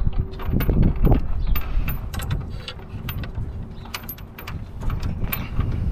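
Scattered light clicks and knocks of tools and parts being handled during truck reassembly, over a low rumble.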